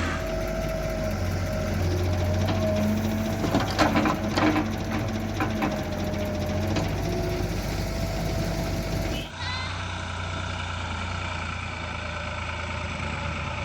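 Heavy diesel machinery running steadily, with a wavering whine over the engine hum and a few sharp clanks around four seconds in; the sound changes abruptly about nine seconds in.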